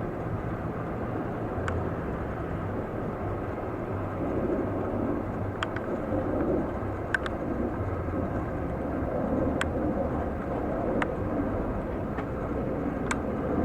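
Jet airliner engines, a steady low rumble, with a few faint sharp clicks.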